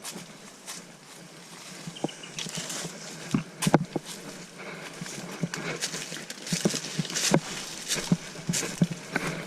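Footsteps on creek stones: irregular knocks and scrapes, coming more often in the second half.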